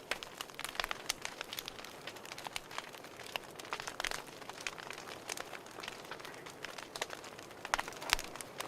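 Fireplace fire crackling: irregular snaps and pops over a soft steady hiss, with a few louder pops near the end.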